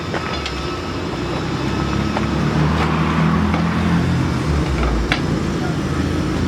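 Heavy vehicle engine running steadily with a deep hum that grows a little louder a few seconds in, and a few faint clicks over it.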